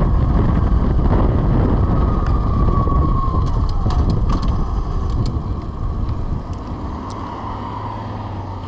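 Wind rushing over the microphone on a moving VMX12-F electric motorcycle, with a thin electric motor whine that falls in pitch partway through and a few light ticks. The wind noise eases over the last couple of seconds as the bike slows.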